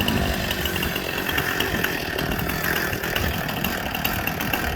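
Two-stroke chainsaw engine on a homemade chainsaw mill running at a steady speed.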